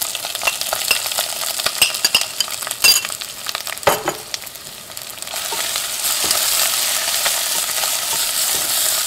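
Grated ginger frying in hot coconut oil: scattered crackles and a few sharp pops at first, then from about five seconds in a steady sizzle that grows louder.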